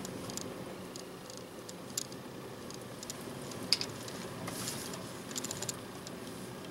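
Car engine running, heard from inside the cabin as a steady low hum, with scattered light clicks, a sharper click nearly four seconds in and a short run of clicks near the end.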